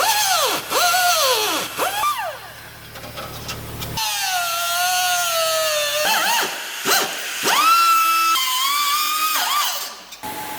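Cordless power tool motor whining as the trigger is worked: it speeds up and slows down several times, then holds at steady speeds that step up and down.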